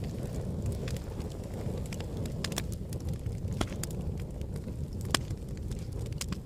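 Wood fire burning in a fireplace: a steady low rumble of flames with scattered sharp crackles and pops, the loudest about three and a half and five seconds in.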